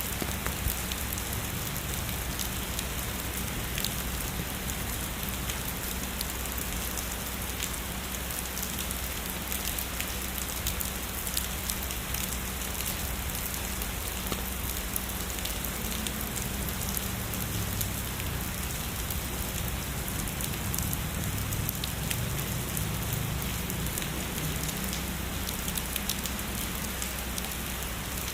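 Heavy rain falling steadily, a dense even hiss full of individual drop ticks.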